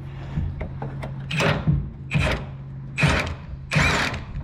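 Four short, harsh bursts of tool noise, evenly spaced a little under a second apart, from work on a pickup truck's rear shock mounts, over a steady low hum.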